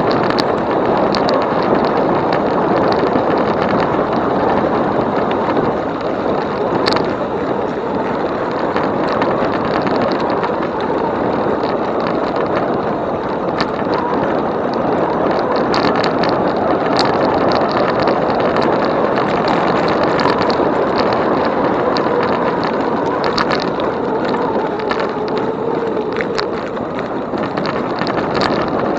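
Steady wind and tyre noise from riding an e-bike along a trail, with scattered small clicks and rattles throughout.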